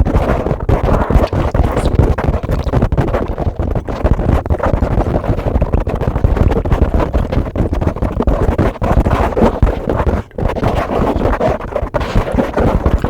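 Fast brushing directly on a microphone: bristles scratching rapidly across the mic, close and loud, with a heavy low rumble from the contact.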